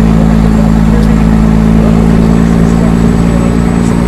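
Motor vehicle driving at a steady speed: a constant low engine drone with road noise.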